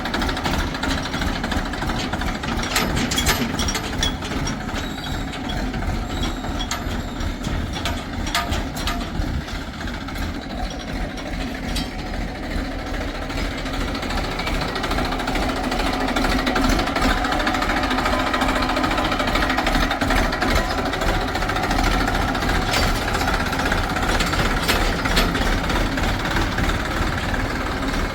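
Diesel engines of a JCB 3DX backhoe loader and tractors running steadily under work with a rapid knocking clatter. A few sharp metallic clanks come through now and then.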